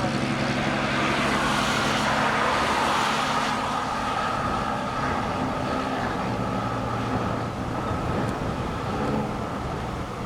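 Motor vehicle noise: a steady engine hum with a rushing swell over the first few seconds that then eases.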